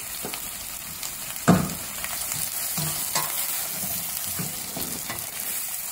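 Chopped onions and bitter gourd peels frying in hot oil in a steel pot, sizzling steadily as they are stirred with a wooden spoon. A sharp knock about one and a half seconds in is the loudest sound, followed by a few softer knocks.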